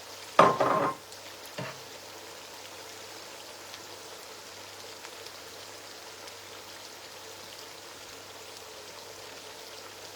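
Stew base of palm oil with blended ginger, garlic and onion frying in a pot, a steady soft sizzle. There is a short clatter with a brief ring about half a second in and a lighter knock a second later.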